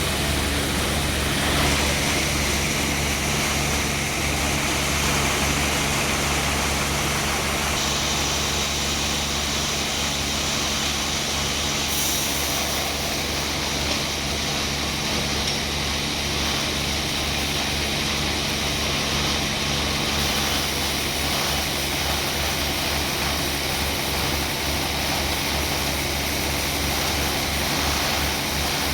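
Sawmill machinery running steadily: a motor's steady drone under a saw's high hiss, which shifts in tone about a third of the way in.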